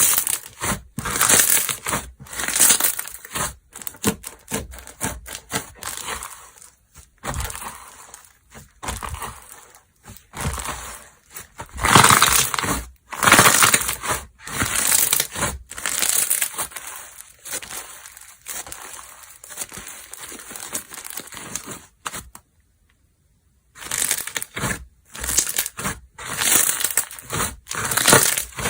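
Slime being squeezed, pressed and stretched by hand, making irregular bursts of squishing and crackling noise. It cuts to dead silence for a second or two about 22 seconds in, then resumes.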